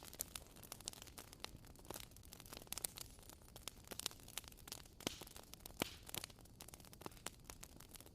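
Wood bonfire crackling: irregular sharp pops and snaps, several a second, over a soft hiss of burning.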